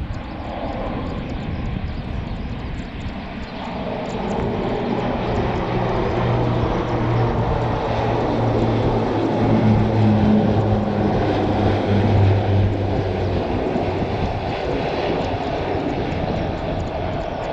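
Aircraft engine noise of a plane flying past. It builds to its loudest about two-thirds of the way in, with a steady low hum that holds through the middle and then fades.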